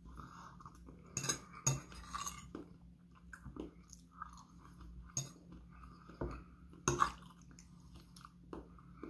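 Close-up chewing and mouth sounds of a person eating soft stuffing and mixed vegetables, with a metal fork clicking and scraping on the plate now and then.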